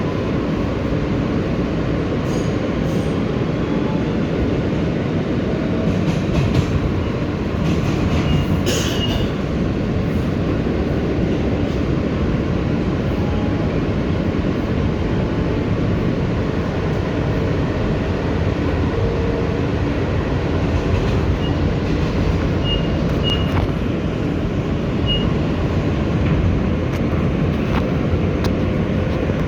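R160B Siemens subway car running between stations, heard on board: a steady rumble of wheels on rail with occasional clicks. Brief high wheel squeals come about nine seconds in and several times near the end.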